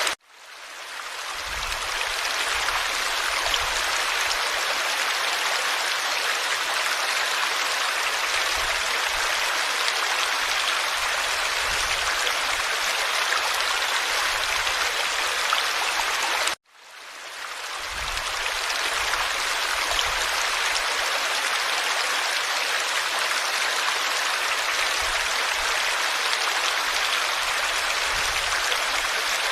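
Forest stream flowing over rocks, a steady rush of running water. It cuts out abruptly twice, at the start and about halfway through, and each time fades back in over a second or two.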